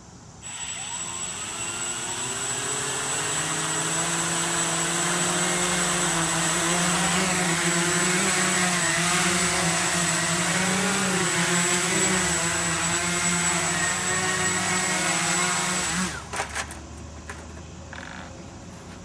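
Walkera QRX350 Pro quadcopter's brushless motors and propellers spinning up and flying, a steady whirring with a high whine, the pitch wavering as the throttle changes. About sixteen seconds in it sets down on a hard surface and the motors cut out abruptly, with a few clicks.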